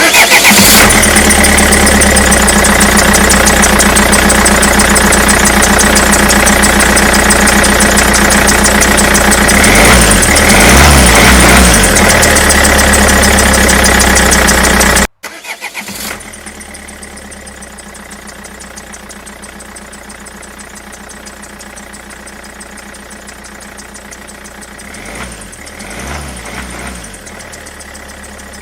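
Tractor engine sound running steadily, loud for about fifteen seconds, then dropping abruptly and carrying on much quieter. A short swell in the engine note about ten seconds in comes back the same way about fifteen seconds later, as in a repeating track.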